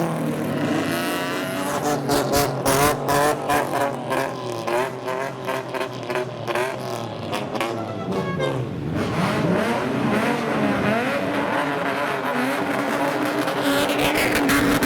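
Loud car exhaust of a modified old street car (kaido racer) being revved. About two seconds in comes a quick string of short throttle blips, then the engine note dips and rises, climbing in pitch near the end.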